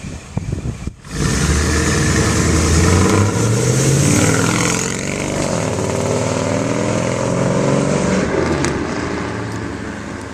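Mercedes engine running through an aftermarket exhaust, its note rising in pitch about three seconds in and then settling to a steady run. The first second holds gusty wind on the microphone and a brief break.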